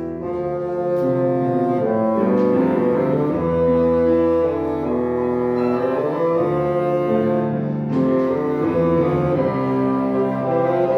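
Bassoon playing a legato melody of held notes, with piano accompaniment.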